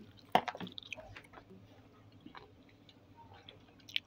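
Someone eating oysters, with chewing and mouth sounds. A cluster of sharp clicks comes about half a second in, and a few fainter clicks follow.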